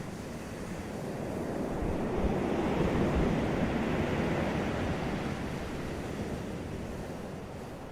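Ocean waves breaking on a beach: a wash of surf that swells for a couple of seconds and then slowly ebbs away.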